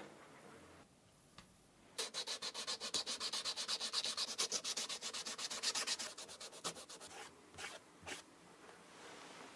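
Rapid back-and-forth abrasive rubbing on a sneaker, about ten strokes a second for some four seconds, then a few slower strokes that trail off.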